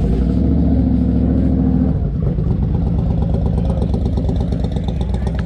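An engine running steadily, settling to a lower pitch about two seconds in.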